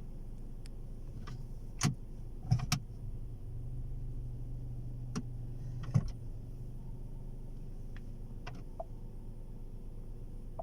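Ford Figo's engine starting with a brief, sharp crank about two and a half seconds in, then idling with a steady low hum that eases off slightly near the end, among a few clicks from the car's controls.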